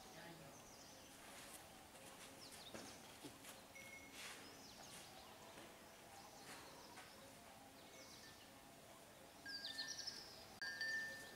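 Faint bird calls, short chirps and brief whistles, over quiet outdoor background noise, with a livelier burst of calls about nine and a half seconds in.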